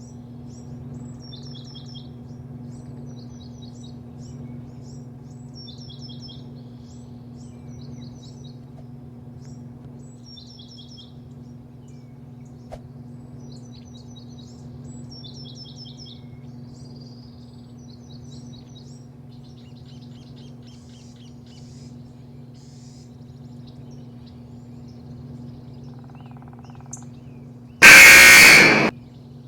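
Small birds chirping in short repeated phrases over a steady low machine hum. Near the end a very loud blaring blast lasting about a second cuts in.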